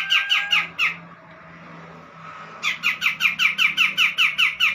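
Cucak jenggot (grey-cheeked bulbul) calling in a rapid chattering series of harsh descending notes, about five a second. It pauses about a second in and starts again a little before three seconds in.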